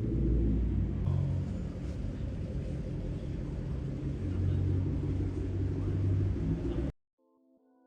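Low, steady rumble of the Toyota Crown Majesta's 4.6 L V8 engine through its straight-through exhaust while driving. It cuts off suddenly about seven seconds in.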